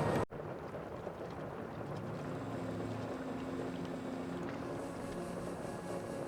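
Sea ambience as heard on a boat: a steady wash of water and wind noise with a faint, steady low hum. A louder sound cuts off abruptly just after the start.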